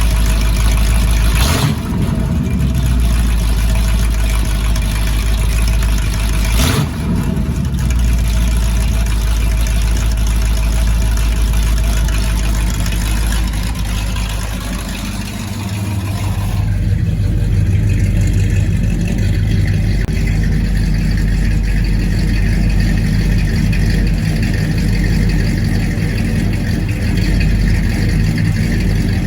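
A 454 big-block Chevy V8 (7.4 L) idling through 2.5-inch stainless exhaust with Flowmaster 40-series-style mufflers and QTP exhaust cutouts. About halfway through, the sound turns deeper, with less of the higher tones.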